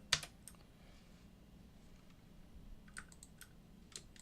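Computer keyboard clicks: one sharp click just after the start, then a few scattered key taps about three to four seconds in.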